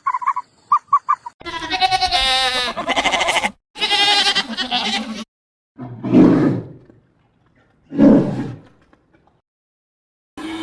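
A few short chirping calls, then two long quavering bleats from a goat or sheep-like animal, then two short low roars about two seconds apart.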